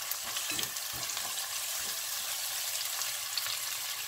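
Chopped onion, garlic, peppers and scallion sizzling steadily in hot oil in a pot, with a few soft strokes of a silicone spatula stirring them in the first couple of seconds.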